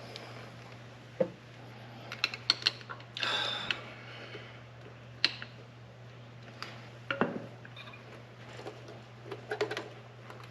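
Scattered metal clicks and light knocks of hand tools and filter clamp hardware being worked, with a short scraping rustle about three seconds in.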